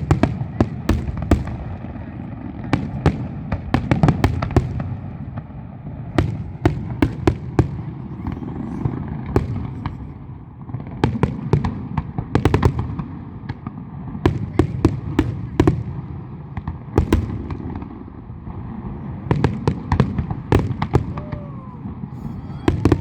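Fireworks going off in rapid, irregular clusters of sharp cracks over a continuous low rumble.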